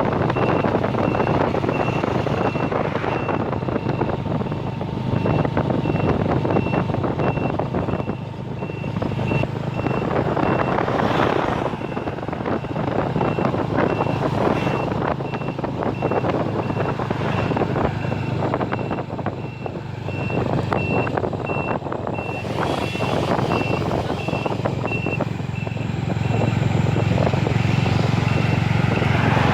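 An electronic beeper sounds a high beep about three times a second, like a vehicle's warning or reversing alarm. Under it is a loud rushing noise that swells and fades, over a steady low hum.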